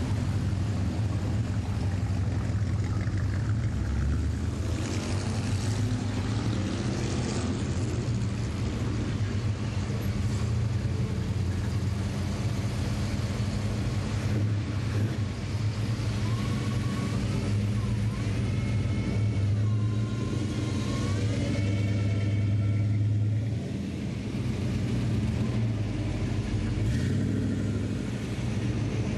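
Vintage hot rods and custom cars driving slowly past one after another, their engines and exhausts making a steady low rumble. About two thirds of the way in, a high wavering tone rises and falls for several seconds over the engine sound.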